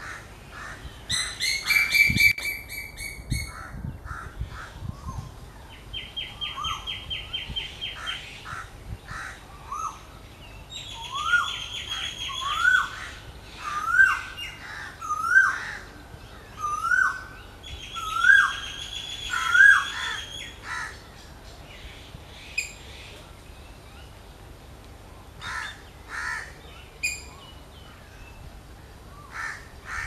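Birds calling: harsh, buzzy calls in the first few seconds and a dry trill, then a run of about seven short rising notes roughly a second and a half apart, with scattered chirps near the end.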